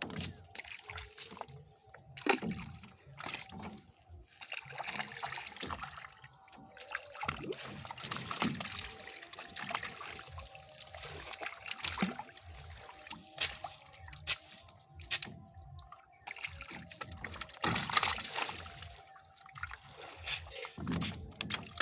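Water sloshing and splashing in irregular bursts, with sharp splashes, as live fish thrash in shallow water.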